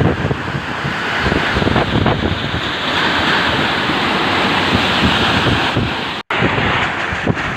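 Storm wind gusting hard against the microphone over a steady rushing roar. The sound cuts out for an instant about six seconds in.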